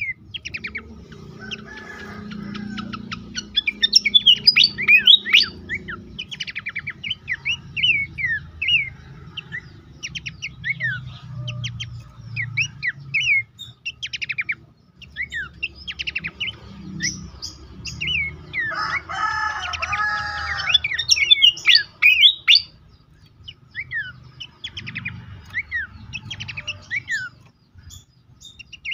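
Pelanduk semak (Horsfield's babbler) singing, with a busy stream of quick, sharp chirping notes, busiest around four to six seconds in and again around twenty seconds. About two-thirds of the way through, a longer, lower drawn-out call lasts about two seconds over the chirping.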